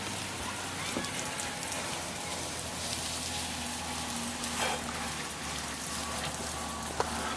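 Steady pattering hiss of precipitation falling on surfaces, with scattered small ticks and a faint low hum underneath.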